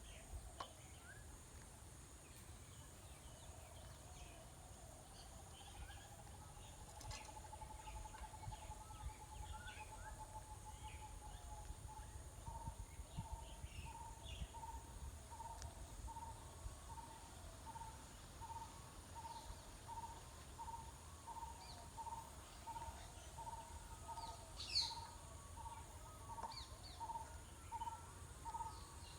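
Outdoor bird sounds: scattered short chirps, one louder call near the end, and a single steady mid-pitched note that starts about a quarter of the way in and, from near the middle, repeats evenly about twice a second.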